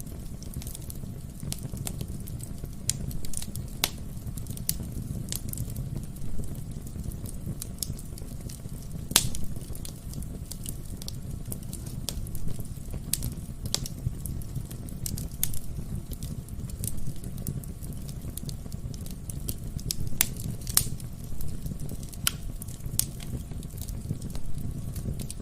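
Wood fire burning in a fireplace: a steady low rumble of flames with irregular sharp crackles and pops of burning logs, one louder pop about nine seconds in.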